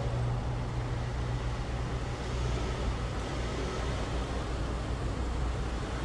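Mitsubishi Lancer sedan driving slowly across a concrete parking garage, a steady low engine and tyre rumble.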